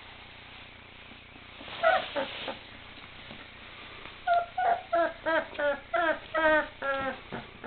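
23-day-old Bernese Mountain Dog puppies yelping and whining: one short cry about two seconds in, then a run of about ten short high-pitched yelps, about three a second.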